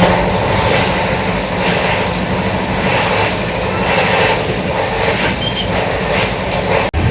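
Passenger coach of an express train running at speed: loud, steady rumble and rattle of the carriage on the track. It starts abruptly and cuts out for an instant near the end.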